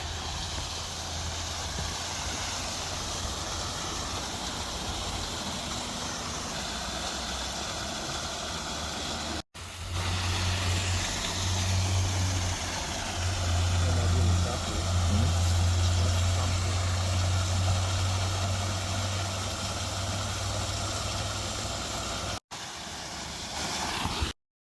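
Steady rushing roar of a waterfall with a deep wind rumble on the microphone, heavier in the middle stretch. It drops out abruptly twice and cuts off just before the end.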